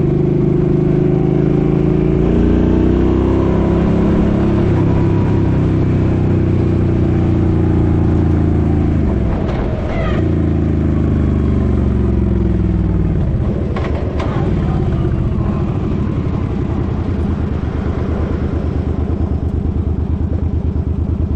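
Suzuki Boulevard M50's 805 cc V-twin running on the road, its engine note slowly falling as the bike slows. Other vehicles go by about ten and fourteen seconds in. Near the end the engine settles into a slow, even low-rpm beat.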